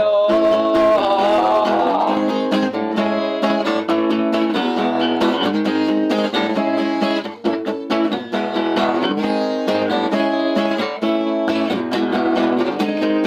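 Acoustic guitars playing: chords strummed in a steady rhythm, with a wavering single melody line over them in the first couple of seconds.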